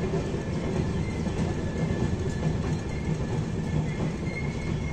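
Express passenger train running along the track: a steady rumble of wheels and coaches.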